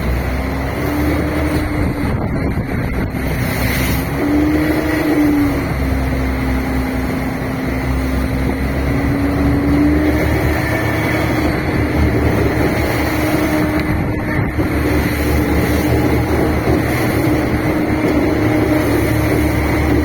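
Fishing boat's engine running under way, its pitch stepping up and back slightly a few times, over a steady rushing noise.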